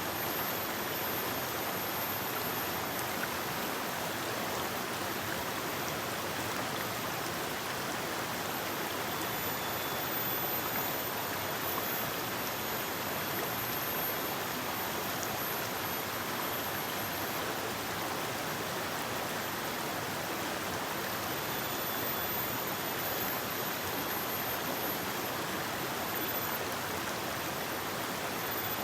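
A forest river flowing over rocks: steady rushing and splashing water, unbroken throughout.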